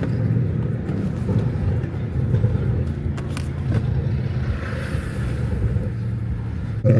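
A car engine running steadily: a low, even drone, with a few brief clicks about three seconds in.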